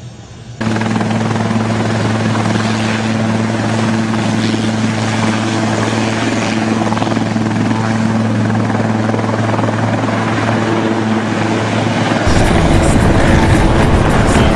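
Helicopter running, a steady droning hum over noisy rotor wash, starting abruptly. About twelve seconds in it changes suddenly to a louder, rougher noise without the steady hum.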